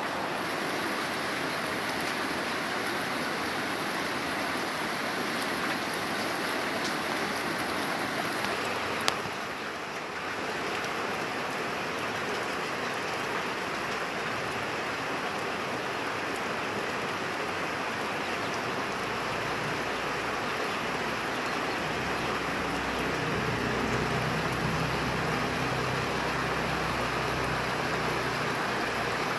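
Steady rain falling, an even hiss of drops, with a single sharp tick about nine seconds in. A low hum joins after about twenty seconds.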